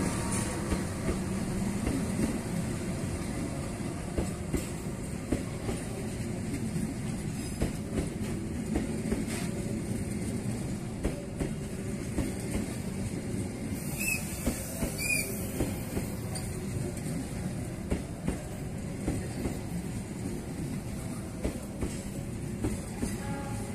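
A train running along the track, its wheels clacking over rail joints in a steady run of clicks over a rumble, with two brief high wheel squeals about midway.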